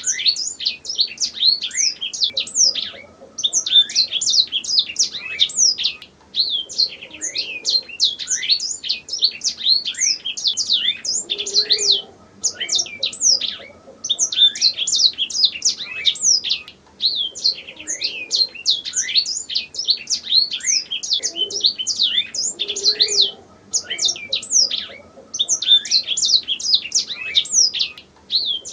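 Domestic canary singing, a fast high-pitched run of chirps and trills delivered in phrases of a few seconds each, broken by short pauses.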